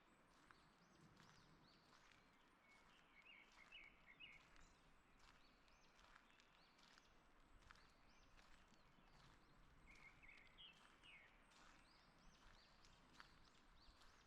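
Faint forest birdsong: thin chirps throughout, with two quick runs of twittering, one about three seconds in and one about ten seconds in. Soft, irregular footsteps on a forest path run under it.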